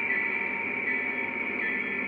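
O scale model train running on the layout: the locomotive's steady electric whir and hum, with several steady tones.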